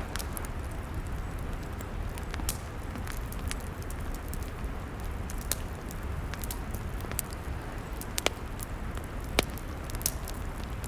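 Wood campfire crackling: scattered sharp pops and snaps over a steady low rumble, with two louder pops near the end.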